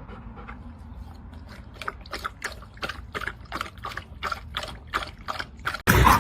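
A dog lapping water from a bowl, rhythmic wet laps about four a second, growing more distinct after the first couple of seconds.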